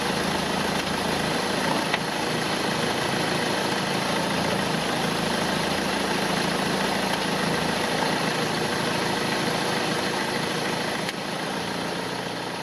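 1998 Volvo S40 engine idling steadily, heard close up from the engine bay. A front engine mount that the owner judges loose and in need of replacing lets the engine rock as it runs.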